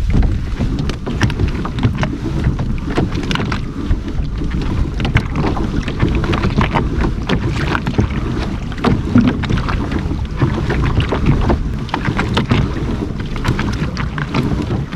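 Wind buffeting the microphone over water splashing and slapping against a kayak's hull as it moves along, with frequent small knocks.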